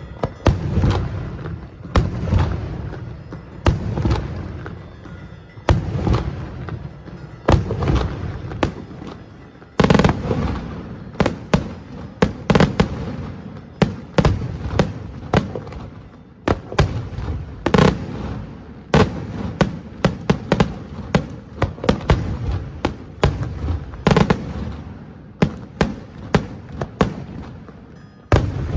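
Daylight fireworks display: aerial shells bursting in sharp, loud bangs, each with an echoing rumble. The bangs come every second or two at first, then follow in a quicker run of cracks from about ten seconds in.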